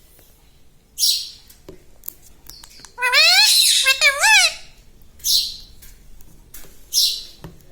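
Ring-necked parakeet calling: short harsh squawks about a second in, again past the middle and near the end, and a loud pair of rising-and-falling pitched calls about three seconds in.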